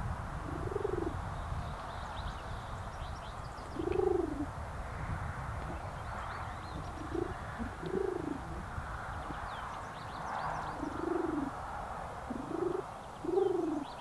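Low cooing bird calls: single short notes that rise and fall, repeated every second or few, with faint high songbird chirps in the background.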